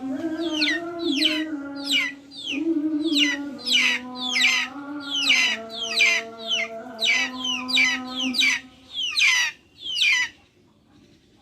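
Backyard birds calling: a rapid series of short, high chirps that fall in pitch, about two or three a second, over a steady low droning tone that steps down in pitch. Both stop near the end.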